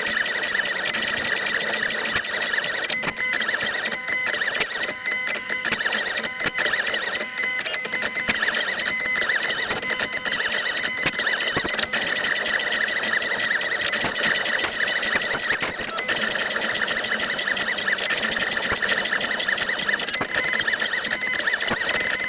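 Shapeoko 5 Pro CNC machine running a foam-cutting job: the spindle gives a steady high whine while the bit cuts Minicell foam and the gantry's motors whir and tick as the cutter moves.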